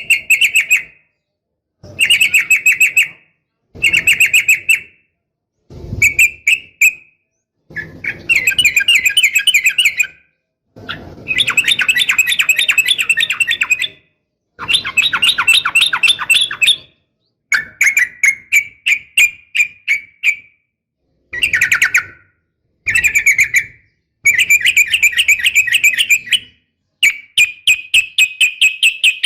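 Yellow-vented bulbul (trucukan) calling, presented as a female calling to a male. The calls come in repeated bursts of rapid chattering notes, each a second or two long, with short pauses between them.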